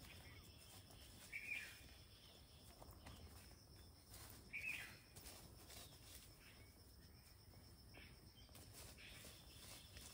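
Quiet outdoor ambience: a bird gives a short chirp twice, about three seconds apart, over faint scraping of hands working in loose soil.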